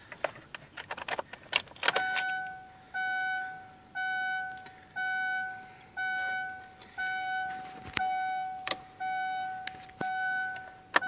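Car's dashboard warning chime beeping steadily about once a second, starting about two seconds in. Before it come light clicks and rattles, and a few more sharp clicks sound between the beeps near the end.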